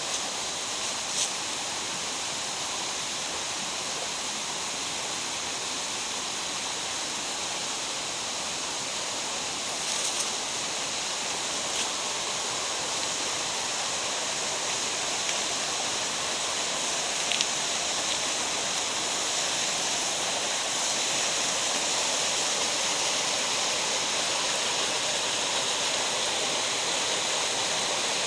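Mountain stream rushing steadily over rocks in a gorge, growing a little louder about halfway through.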